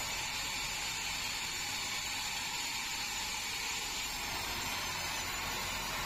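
Band sawmill running steadily: a low machine hum with a wide, even hiss over it, unchanging throughout.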